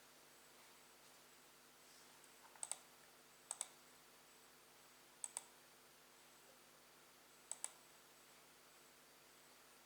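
Four quick double clicks of a computer button, irregularly spaced about one to two seconds apart, against near silence.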